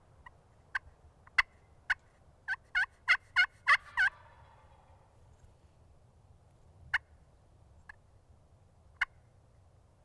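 Turkey calling close by: a few sharp single clucks, then a run of about six loud yelps, then two more clucks spaced well apart.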